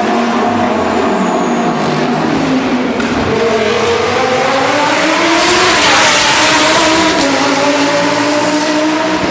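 Lamborghini Super Trofeo race cars' V10 engines running hard, the engine note climbing for a few seconds, loudest as a car goes by about six seconds in, then settling to a lower, steadier note.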